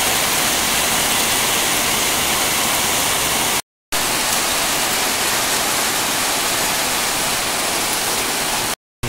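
Heavy rain pouring down steadily, a loud even hiss. It cuts out for a split second about three and a half seconds in and again near the end.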